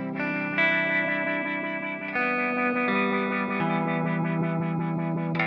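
Electric guitar played through an Old Blood Noise Endeavors Sunlight Stereo reverb pedal, with the reverb's decay turned up and blended with its modulated delay. Sustained chords wash into one another, with new notes entering several times and ringing on.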